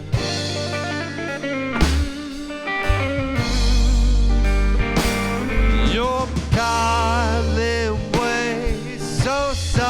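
Rock music: an instrumental passage with electric guitar playing bending, wavering lead lines over bass and drums.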